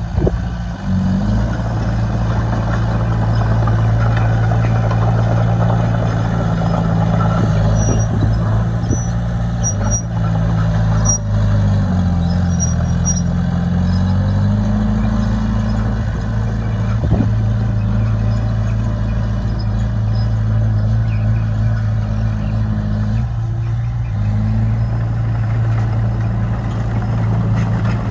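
Bulldozer's diesel engine running steadily with a deep drone, its engine speed dipping briefly about halfway through and then recovering.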